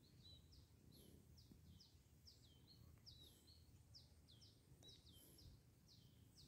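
Near silence, with a faint bird chirping over and over, short high notes at about three a second.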